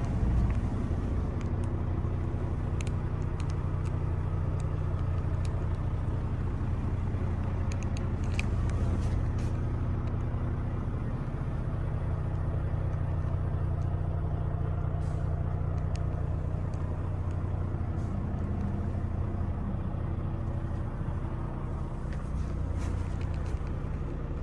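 Volvo D13 inline-six diesel engine of a 2019 Volvo VNL semi truck idling steadily.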